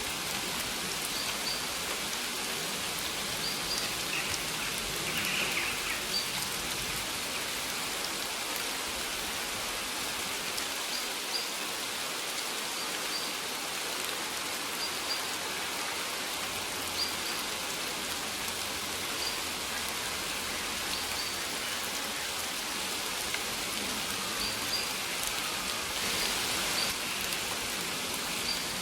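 Steady rain falling on surfaces, an even hiss weighted toward the high end. Short, faint, high bird chirps recur every second or two.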